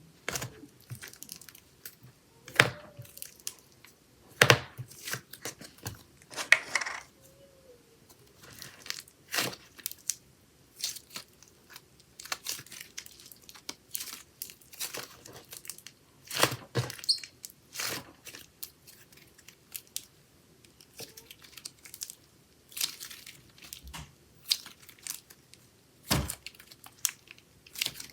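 Hands squeezing, stretching and poking a chocolate slime, making irregular wet crackles and pops, some much louder than others.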